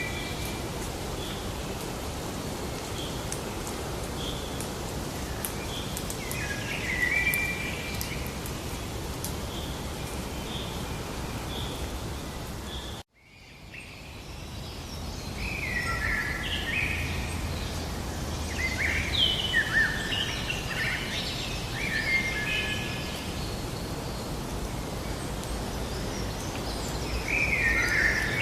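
Birdsong over a steady outdoor hiss, with a short chirp repeated about once a second in the first half. The sound cuts out abruptly about halfway through, then fades back in with busier, overlapping birdsong.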